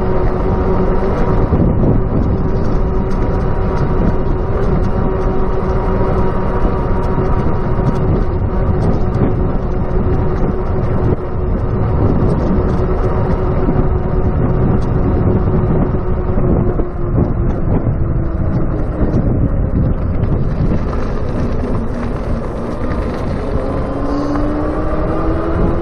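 Wind rushing over a chest-mounted camera and rumble from an electric bicycle in motion, with a steady whine from its hub motor that dips slightly about two-thirds through and rises in pitch near the end as the bike speeds up.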